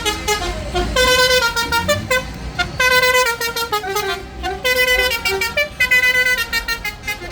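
Tractor horns honking repeatedly over the low rumble of engines, several horns of different pitch overlapping in short and longer blasts.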